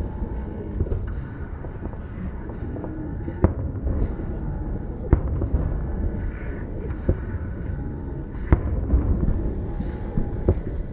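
Fireworks going off: sharp bangs a second or few apart, three of them louder than the rest, over a steady low rumble.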